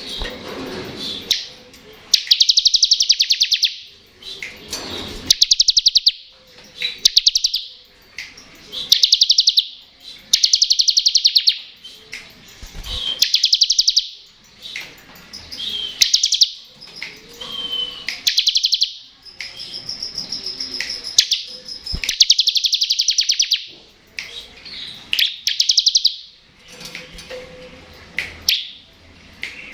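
Bar-winged prinia (ciblek) singing in the 'ngebren' style: a string of fast, high rattling trills, each about a second long, repeating every couple of seconds with softer chirps between.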